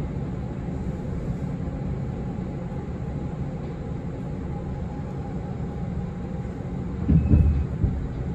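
Steady low rumble of a train rolling slowly into a station, heard from inside the carriage, with a short cluster of heavy thumps about seven seconds in.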